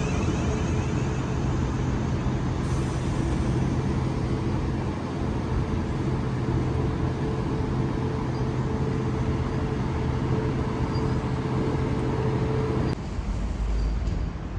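Train running at a station: a steady low rumble with a droning hum, which cuts off suddenly about 13 seconds in.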